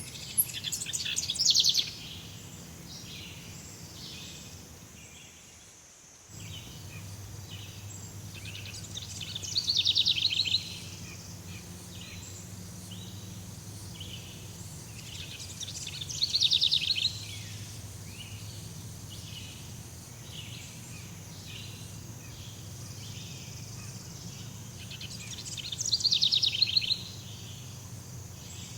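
Jungle ambience: a bird's rapid, pulsing trill comes four times, each about a second long, swelling and then stopping abruptly. Under it runs a steady high insect hiss and a low drone.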